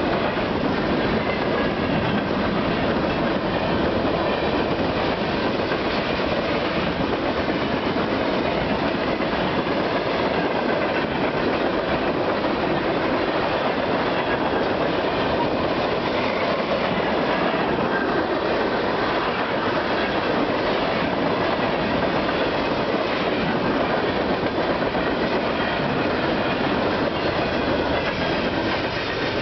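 Freight cars, tank cars and covered hoppers, rolling past at speed: a steady rumble with the clatter of steel wheels over the rails.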